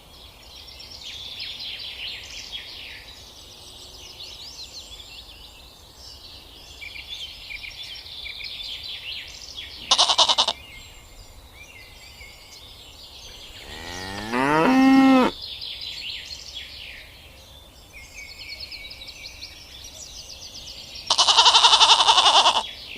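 Farm animal sounds over steady birdsong: a cow moos once, rising then holding, about two-thirds of the way in. Two shorter loud animal calls come near the middle and near the end.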